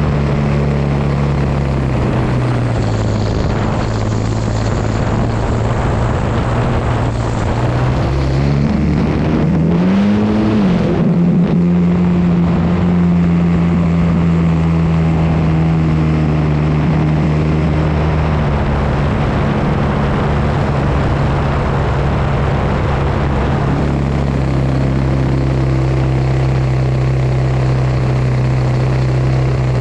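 Yak 54's engine and propeller running continuously, heard from the onboard camera. The pitch drops a few seconds in, climbs with a wobble around a third of the way through, holds higher for a while, then eases down in two steps later on as the throttle is worked through manoeuvres.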